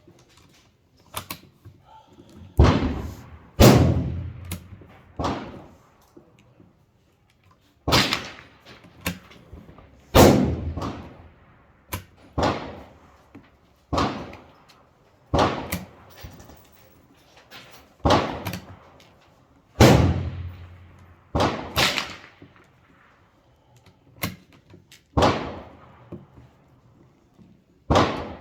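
Semi-automatic AR-15 (M4-clone) rifle in 5.56 firing single shots at a steady, unhurried pace, roughly one every one to two seconds, each a sharp crack with a short echoing tail. A few fainter cracks fall between the shots.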